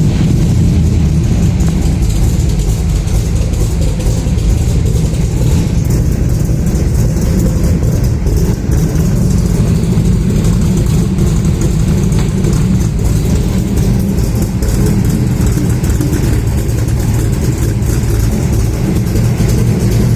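Car engine running steadily at idle just after a cold start.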